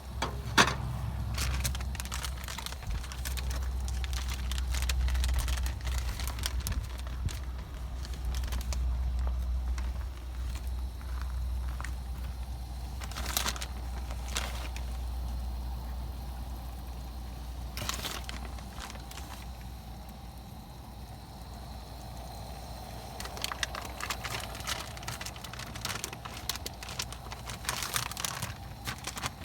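Wind buffeting the microphone with a steady low rumble, overlaid by scattered crackles, clicks and a few sharp knocks. The crackling thickens near the end.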